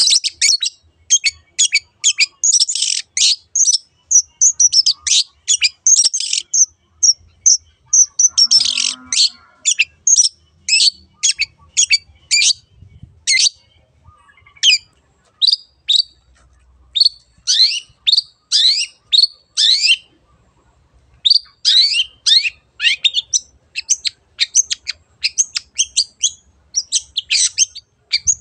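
Long-tailed shrike (cendet) singing in full voice: a fast, continuous string of short, sweeping high chirps, broken by a pause of about a second some two-thirds of the way through.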